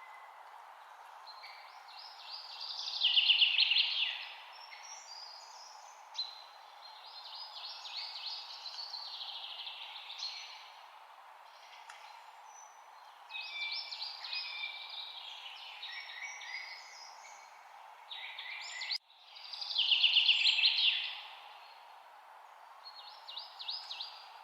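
A songbird singing repeated fast phrases of many quick high notes, each phrase lasting two to three seconds with short pauses between, over a steady background hiss.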